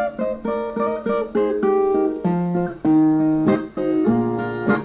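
Brazilian viola, a ten-string folk guitar, plucked in an instrumental break between sung verses: a quick run of single picked notes and short chords.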